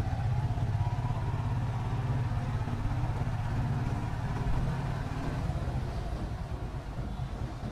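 Motorcycle engine running steadily as the bike is ridden, with a slight easing in level near the end.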